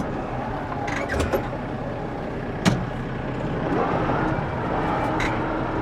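Tractor engine running steadily, its pitch rising briefly about four seconds in, with a single sharp clank a little under three seconds in.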